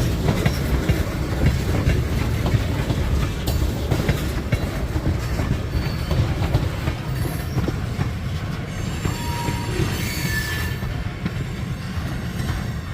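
Great Lakes Central freight train's cars rolling past, a steady heavy rumble with wheel clicks and brief wheel squeals about nine to ten seconds in, easing off slightly toward the end.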